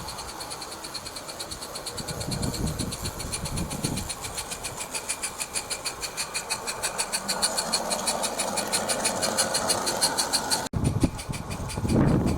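Garden-railway Lady Anne locomotive with its Slo Mo inertia drive running along the track, giving a fast, regular beat that quickens and grows louder. The sound breaks off abruptly near the end.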